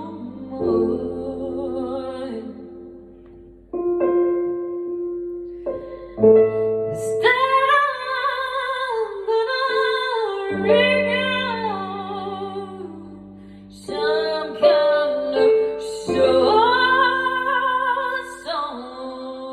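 Music: a singing voice holding long, wordless, wavering notes with vibrato over sustained keyboard chords that change every few seconds.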